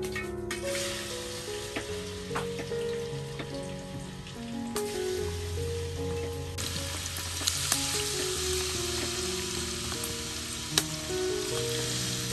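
Cubes of tofu sizzling as they are dropped into hot oil in a wok, the sizzle growing louder a little past halfway as more go in. A few sharp clicks come through the sizzle.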